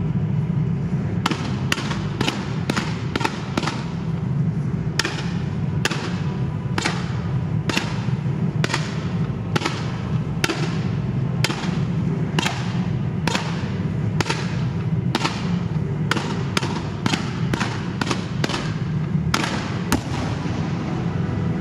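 Fireworks going off in a rapid series of sharp bangs, about one to two a second, over a steady low rumble.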